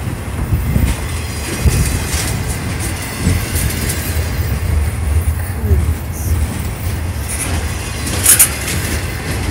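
Freight train of loaded flatcars rolling past close by: a steady low rumble of steel wheels on the rails with scattered clicks and clanks. A short, sharp noise about eight seconds in is the loudest moment.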